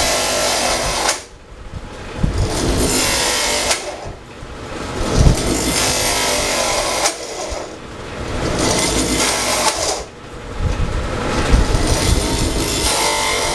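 Router bit cutting into a block of wood, running loud and steady. The cut eases off briefly about every three seconds, at the end of each pass, and then picks up again.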